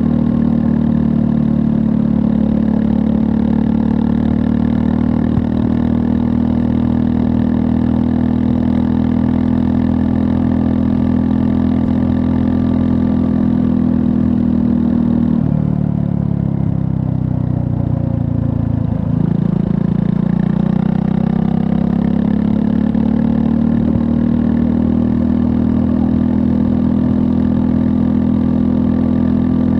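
2024 Triumph Scrambler 400 X's 398 cc single-cylinder engine running on the move at a steady note. About halfway through, the engine note falls for a few seconds, then climbs back up.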